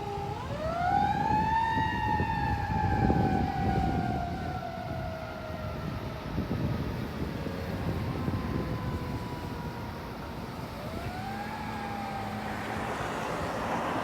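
Fire truck siren wailing: the pitch climbs quickly, then falls slowly over several seconds, followed by a second, shorter rise and fall, over the low rumble of the truck. A burst of rushing noise comes near the end.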